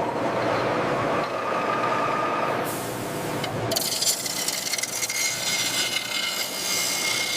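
Factory metalworking noise with a rasping, scraping texture, like a tool working a metal surface. About four seconds in it turns hissier, with a steady high whine.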